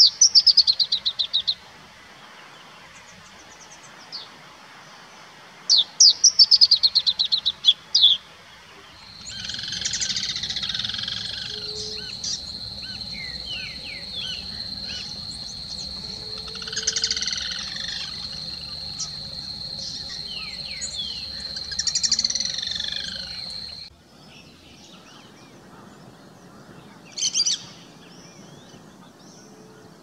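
A small songbird sings a rapid trill of quick notes falling in pitch, twice, about six seconds apart. After that comes a busier stretch of many short bird calls over a steady high-pitched whine, which cuts off suddenly. A single short bird call sounds near the end.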